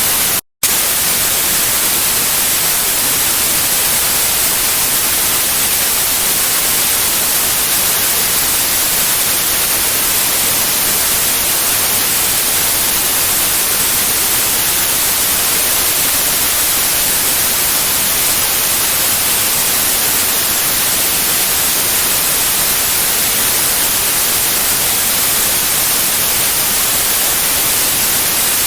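White noise: a steady, loud, even hiss with most of its energy in the high end. It cuts out to silence for a fraction of a second about half a second in, then carries on unchanged.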